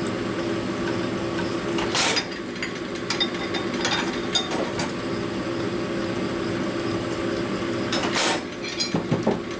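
Connecting-rod honing machine running steadily while a rod bore is finished with a fine stone, with sharp metallic clinks about two seconds in, near eight seconds, and a few smaller ones near the end.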